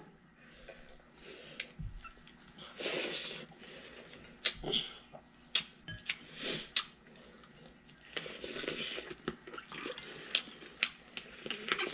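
Eating sounds at a table: chewing and lip-smacking with scattered soft wet clicks as food is eaten by hand, and a few short breathy smacks.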